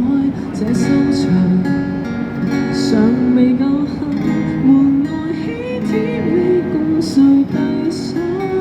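Live acoustic busking music: a strummed acoustic guitar accompanying a voice singing a Cantopop ballad.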